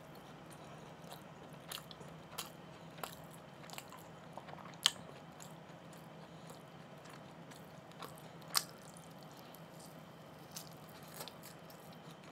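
Close-miked chewing and biting of marinated beef short ribs (LA galbi), with scattered short sharp mouth clicks and smacks; the loudest comes about five seconds in and another about eight and a half seconds in. A faint steady low hum runs beneath.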